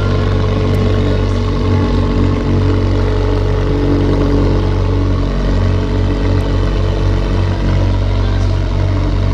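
Car engine running steadily at low speed, close by, without a clear rev.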